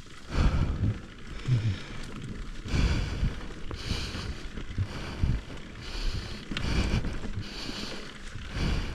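Mountain bike being ridden along a muddy trail, its tyres and frame rattling and rumbling unevenly, with low wind buffeting on the microphone.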